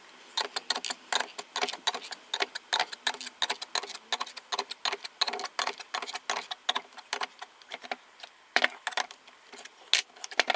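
Rapid, irregular metallic clicking and tapping of hand tools working a crankshaft puller, drawing the second crankcase half of a Honda Dio two-stroke scooter engine onto the crankshaft, with a few louder clacks near the end.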